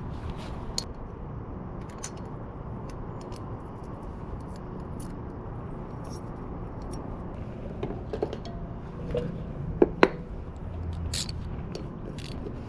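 Small metal engine parts clicking and clinking as a pit bike engine's cylinder head is assembled by hand, with two sharper metallic clicks about ten seconds in, over a steady low background hum.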